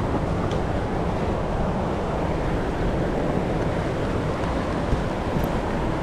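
Steady rush of moving river water, with wind noise on the microphone.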